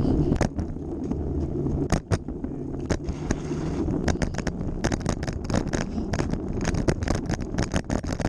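Bicycle riding over rough ground: a steady low rumble of tyres and wind, with quick, irregular rattling clicks that grow dense from about four seconds in.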